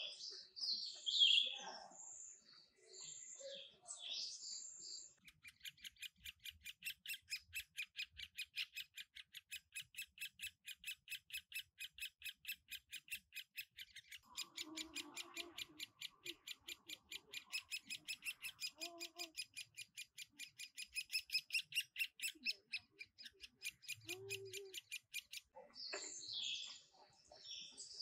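Wild birds calling: scattered high chirps, then a long run of rapid, evenly spaced high notes, several a second, lasting about twenty seconds, before the chirping returns near the end.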